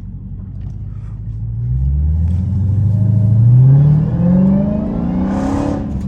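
Straight-piped Dodge Challenger Hellcat Redeye's supercharged 6.2-litre Hemi V8 accelerating hard, its pitch climbing steadily for about four seconds, with a short rushing hiss near the end.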